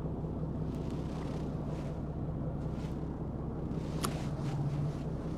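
A fishing boat's engine runs with a steady low hum, with wind on the microphone. A single sharp, ringing click comes about four seconds in.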